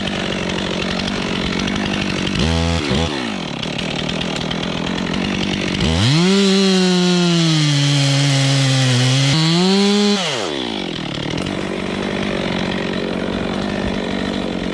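Two-stroke chainsaw idling, blipped briefly about two seconds in, then held at full throttle for about four seconds with its pitch sagging under load as it cuts into wood, before dropping back to idle.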